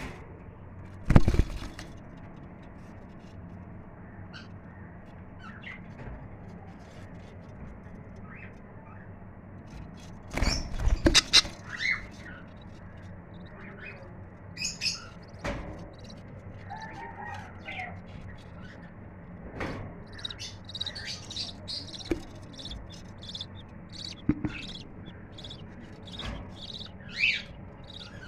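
Budgerigars chirping in short, high calls, sparse at first and coming thick and fast in the last third. A loud knock comes about a second in, and a cluster of knocks about ten seconds in.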